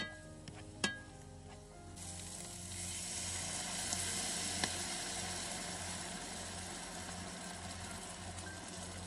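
Chicken and sliced mushrooms sizzling in a hot frying pan, with two sharp clicks of tongs against the pan in the first second. About two seconds in, the sizzle swells into a loud hiss as cream is poured in, and it stays loud from then on.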